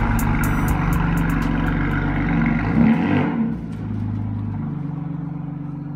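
BMW M4's twin-turbo straight-six running at low revs as the car pulls slowly away, with a brief rev about three seconds in. Then the engine sound drops and settles to a steady, quieter drone as the car moves off.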